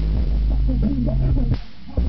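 Rap song in Spanish playing loud through a truck sound system, with deep subwoofer bass under the rapped vocals. About a second and a half in there is a sharp snap, and the music briefly drops out before coming back.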